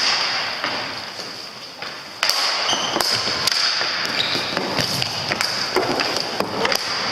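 Sounds of hockey play in a large hall: repeated sharp knocks of sticks and ball over steady room noise, getting louder about two seconds in.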